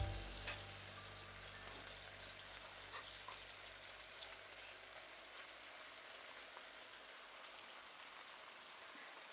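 Chicken breasts frying in butter and olive oil in a nonstick pan, a faint steady sizzle with a few light ticks of metal tongs against the pan.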